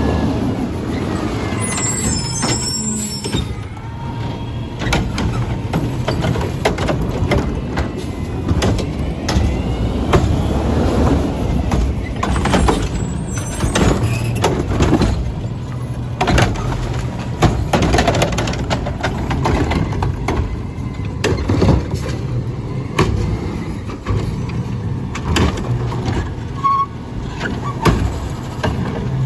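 Autocar ACX garbage truck's diesel engine running, with repeated clanks and bangs from the Curotto-Can arm and body as carts are handled, and short air-brake hisses, around two seconds in and again about twelve seconds in.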